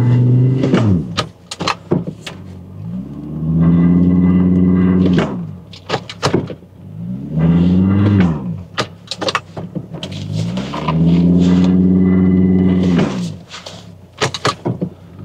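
An SUV's engine revving up and easing off again and again on a rough off-road track, with three long pulls held for a few seconds each. Sharp knocks and clatters come in the gaps between the pulls.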